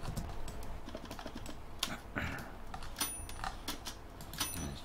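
Scattered clicks of a computer keyboard and mouse in use, irregular in spacing and strength, with a few sharper clicks near the middle and near the end.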